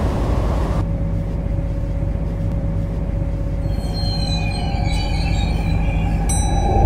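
MTR Kwun Tong line C-Train running on the line with a steady low rumble. From about halfway in, a wavering high wheel squeal rises over it, and two sharp clicks come near the end.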